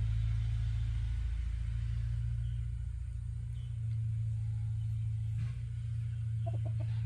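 An engine running steadily with an unbroken low drone, with a few short faint sounds about six seconds in.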